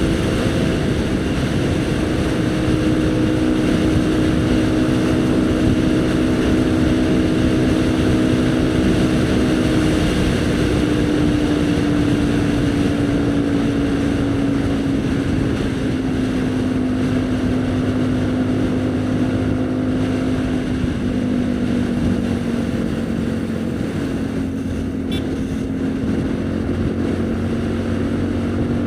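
Haojue NK150's single-cylinder engine running steadily under way; its note slowly drops over several seconds about a third of the way in, then holds steady.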